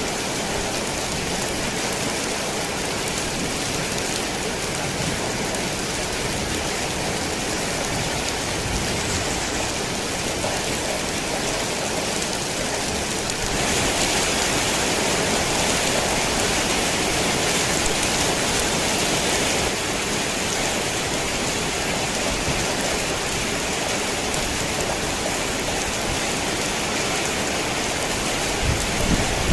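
Torrential rain falling on a worn tin roof, a dense, steady hiss that grows louder for several seconds about halfway through. A low rumble of thunder begins near the end.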